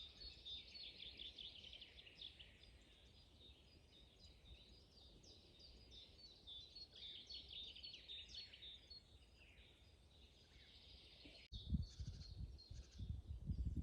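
Chorus of songbirds in a spring forest: many short chirps and trills overlapping. About three-quarters of the way through, the sound cuts out for an instant and a low rumble comes in, louder than the birds, to the end.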